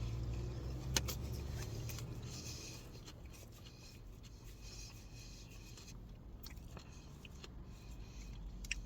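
Faint chewing of a mouthful of chicken tikka sub with lettuce, with small clicks and soft crackles. A low steady hum fades out in the first second or so.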